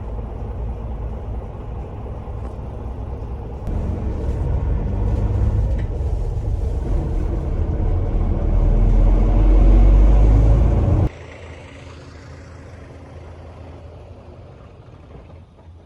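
Low rumble of a moving vehicle, growing louder to its peak and then cutting off abruptly about eleven seconds in, followed by a quieter steady rumble.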